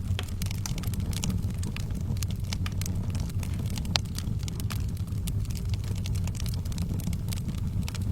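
Wood fire burning in a fireplace: a steady low rumble of the flames with frequent irregular crackles and pops, one louder pop about halfway through.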